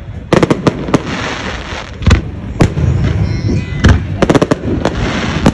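Fireworks bursting in a rapid series of sharp bangs over a steady crackle, with quick clusters of bangs just after the start and again about four seconds in.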